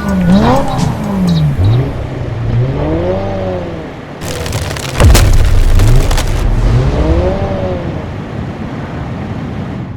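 Cartoon vehicle sound effects: engine sounds gliding up and down in pitch several times, with a loud rushing burst about four seconds in that lasts around two seconds.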